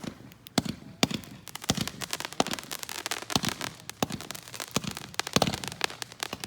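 Consumer fireworks going off: a rapid run of sharp bangs and crackles, some with low thuds, densest in the middle.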